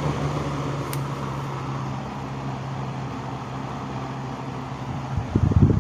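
1970s Lakewood 20-inch box fan running, switched down from high to medium: a click about a second in, then its steady hum drops a little in pitch and level as it slows. Uneven low rumbles come in near the end.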